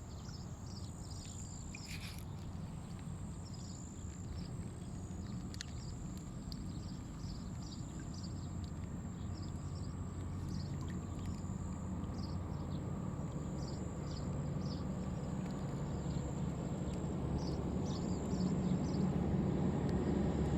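A low engine-like rumble growing steadily louder, with many short, high bird-like chirps scattered over it.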